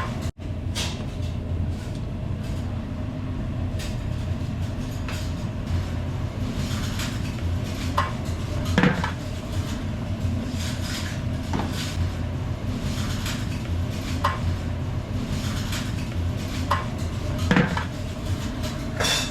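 Restaurant table sounds: scattered clinks and knocks of dishes and cutlery over a steady low hum.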